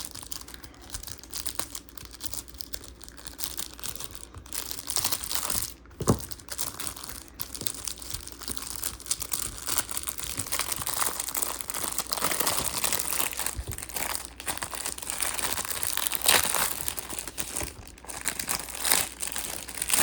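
Plastic wrapper of a 1987 Topps rack pack crinkling as it is torn open and handled, with sharp crackles throughout and one louder snap about six seconds in.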